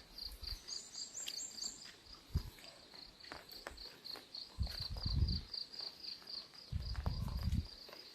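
Insect chirping in a steady high pulse, about five a second, with low thuds of footsteps on the ground a few times.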